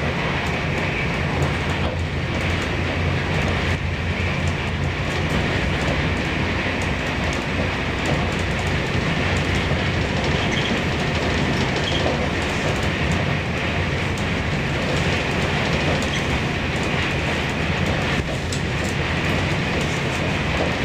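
Steady running noise of a moving passenger train heard from inside the carriage: a low rumble of wheels on the track with some clatter over it.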